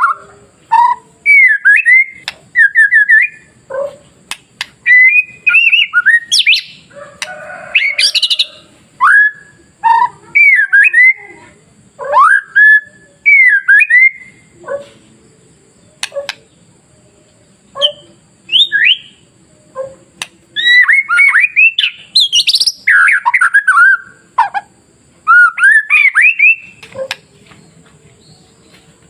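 White-rumped shama (murai batu) singing: a run of loud, clear whistled phrases with rising and falling slurs and quick trills, broken by short pauses. The song goes quiet for the last couple of seconds.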